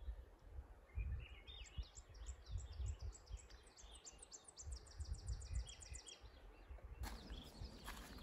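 A small songbird singing: a run of short, high, stepped notes that runs into a fast, even trill of about six notes a second, lasting about five seconds, over a low, uneven rumble. Near the end a louder, steady hiss takes over.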